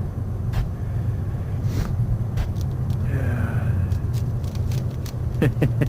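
Steady low rumble with scattered sharp clicks and crackles of ice, more of them near the end.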